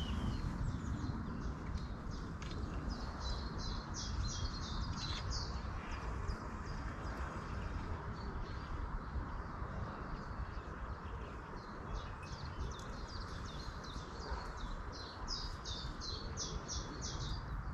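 A songbird singing: a rapid run of short, high repeated notes, heard twice, about three seconds in and again near the end, over a steady low background noise.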